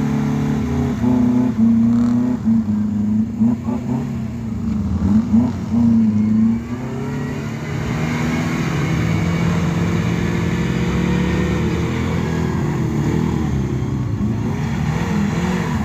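Off-road vehicle engine revving in short surges, then running on steadily with its pitch rising and falling.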